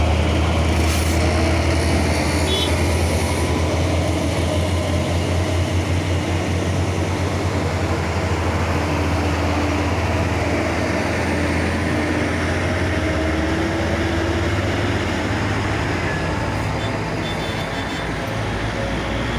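Large truck's diesel engine running steadily with a low rumble.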